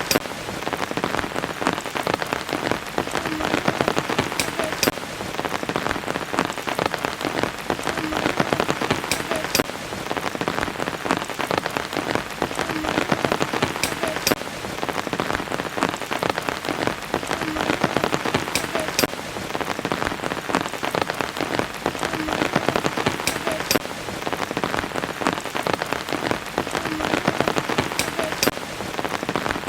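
Steady rain falling on a surface, a dense patter of drops. The same pattern of drops repeats about every four and a half seconds.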